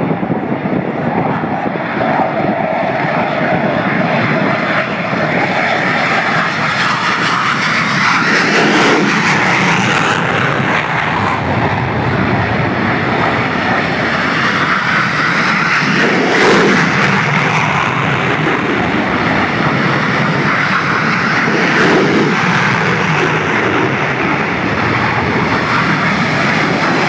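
Blue Angels F/A-18 Hornet jets, each with twin turbofan engines, taking off one after another, very loud. The engine noise swells and eases several times as the jets go by.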